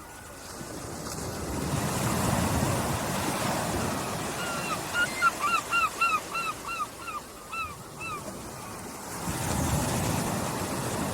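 Small waves washing onto a beach, swelling in about two seconds in and again near the end. In the middle a bird calls a quick run of about a dozen short notes, three to four a second.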